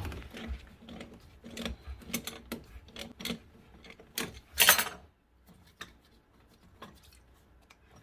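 Light clicks and knocks of tools and fittings being handled during plumbing work, with one louder scraping rasp a little past four seconds in; mostly quiet after that.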